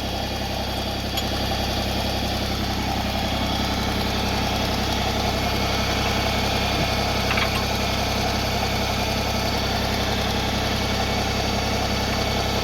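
Tractor engine running steadily at idle, a little louder from about a second in, with a faint click about halfway through.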